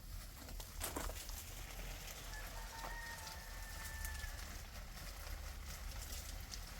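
A rooster crowing faintly: one long, fairly level call lasting about two seconds, starting a couple of seconds in. A sharp knock about a second in.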